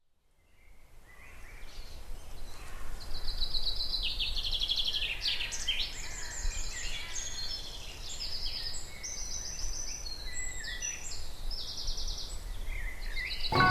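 Woodland birdsong from several small songbirds, fast trills and whistled phrases overlapping, fading in over the first couple of seconds over a low background rumble.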